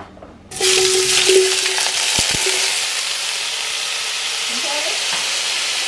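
Cut red potatoes poured into hot olive oil in a cast iron Dutch oven. The oil bursts into a loud sizzle about half a second in, then settles into a steady frying hiss. Two quick knocks come about two seconds in.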